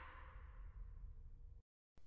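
Faint dying tail of an edited-in sound effect, fading toward near silence, then cutting to complete silence near the end.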